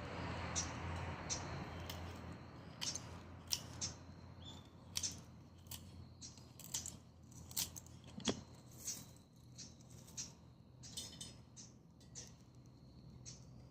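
Dry perilla branches burning in a Solo Stove wood stove: irregular sharp crackles and pops, some loud, over a soft rush of flame that fades in the first couple of seconds.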